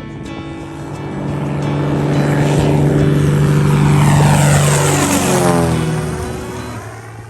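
Single-engine propeller airplane flying past low: the engine and propeller sound grows louder to a peak about four seconds in, then drops sharply in pitch and fades as it goes by.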